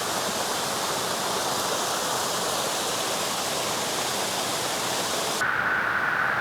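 Waterfall rushing: a steady, even noise of falling water. About five and a half seconds in, the sound changes abruptly to a duller, narrower rush.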